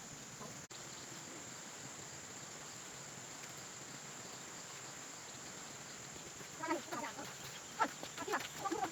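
Insects, crickets or cicadas, keeping up a steady high-pitched drone, with a brief dropout about a second in. Near the end several short calls or voices break in over it.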